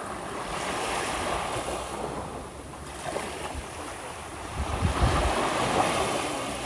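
Small sea waves washing onto the shore, the surf swelling about half a second in and again about five seconds in, with wind buffeting the microphone.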